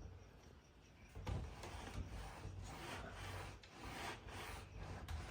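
Sandpaper rubbing by hand on bare hardwood, in repeated back-and-forth strokes that start about a second in, about two to three a second.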